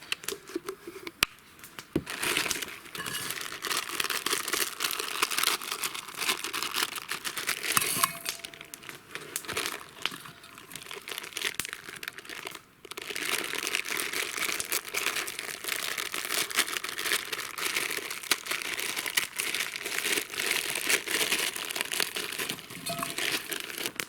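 A pot of water coming to a rolling boil over a crackling campfire, with dense bubbling, hissing and sharp pops.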